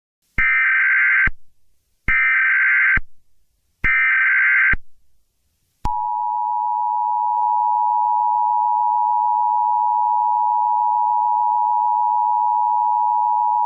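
Emergency Alert System activation tones: three short, buzzy SAME header data bursts, then, from about six seconds in, the steady two-tone EAS attention signal.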